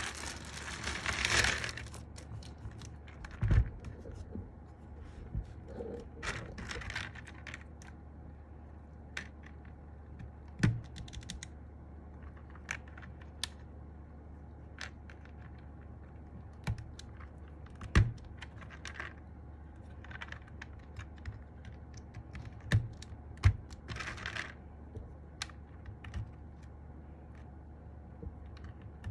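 Irregular clicks and snaps of MMD Panda mechanical keyboard switches being pressed into a hot-swap keyboard plate, with a few louder knocks and brief rustling.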